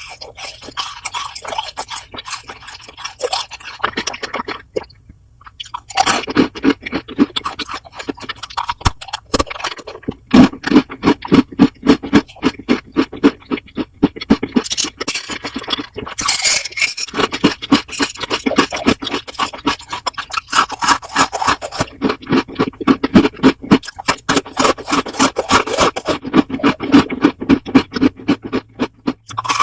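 Loud, close-up chewing of crunchy food: a steady run of crunching bites, several a second, with a short pause about five seconds in.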